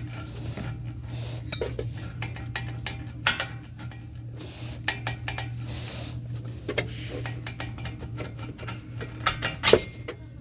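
Metal exhaust pipe and connector being handled: scattered light clinks and knocks, the loudest one near the end, over a steady low hum.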